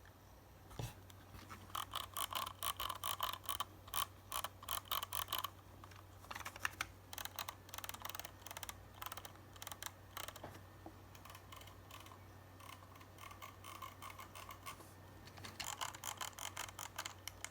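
Razer Basilisk V2 gaming mouse making rapid runs of sharp mechanical clicks and ticks. There are dense stretches in the first half and again near the end, with a lighter patter between.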